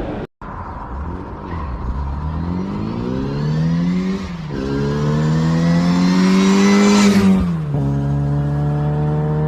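Car engine accelerating hard through the gears. The revs climb, fall at an upshift about halfway through, climb again to the loudest point, then fall at a second upshift and settle into a steady note.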